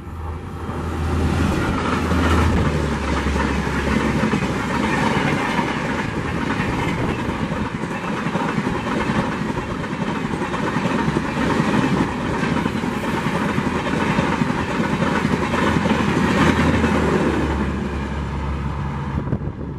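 A WDP4 diesel locomotive (EMD 16-cylinder two-stroke) passes at speed with its engine running, then a long rake of AC passenger coaches rushes past, the wheels clattering over the rail joints. A low hum comes back near the end as the last coach goes by, and the sound fades as the train recedes.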